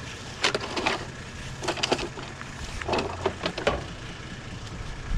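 Three short bursts of sharp clattering and cracking from junk being handled, over the steady low hum of an idling vehicle engine.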